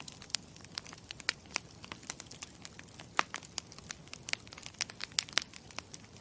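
Campfire crackling: irregular sharp pops and snaps over a soft steady hiss of burning wood.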